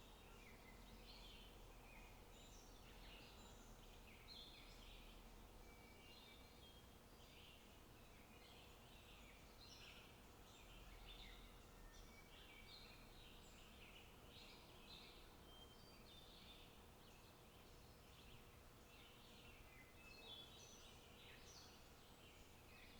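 Faint outdoor ambience: small songbirds chirping and trilling almost constantly, many short overlapping calls, over a low steady background rumble.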